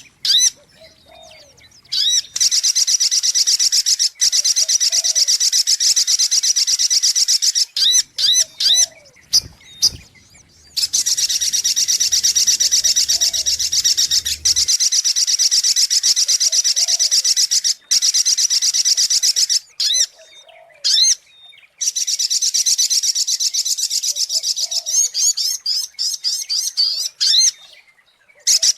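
Sogok ontong bird lure-call recording: loud, rapid, high chattering trills in three long stretches, with short separate chirps in the gaps between them. A faint lower call recurs every couple of seconds underneath.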